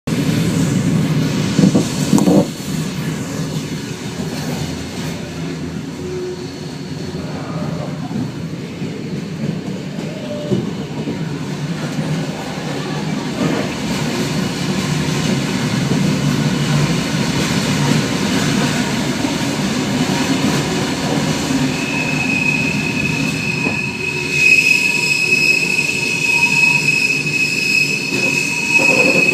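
Flåm Railway train running on the rails with a steady rumble and a few knocks. From about three quarters of the way in, a high, steady wheel squeal rises over it.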